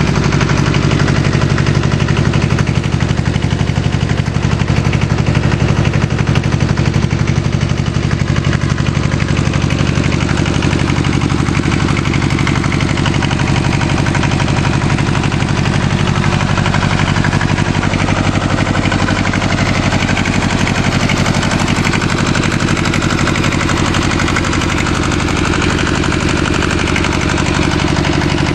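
Bolens G192 tractor's two-cylinder Isuzu diesel engine idling steadily.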